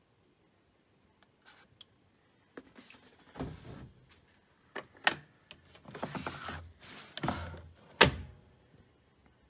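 A string of faint clicks and scraping or rustling noises, with two sharp knocks about three seconds apart, the second the loudest.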